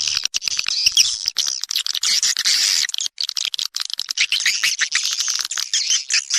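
Edible-nest swiftlets twittering: a dense, unbroken chatter of rapid high chirps and short trills from many birds overlapping. This is a swiftlet call recording of the kind played to lure swiftlets into a nesting house.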